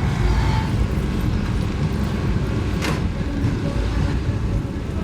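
Car engines and exhausts rumbling steadily as cars cruise by, with a single sharp click or knock a little before three seconds in.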